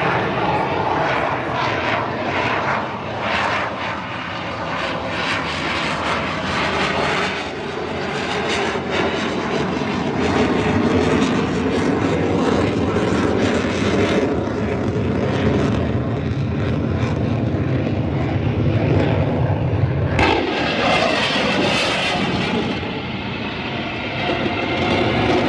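Steady aircraft engine noise, growing louder about ten seconds in and changing abruptly about twenty seconds in.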